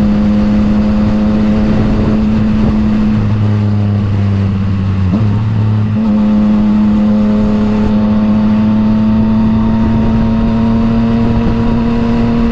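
Yamaha MT-09's three-cylinder engine running through an Akrapovič exhaust at steady cruising revs. The note breaks briefly about five seconds in, then holds and creeps slowly higher.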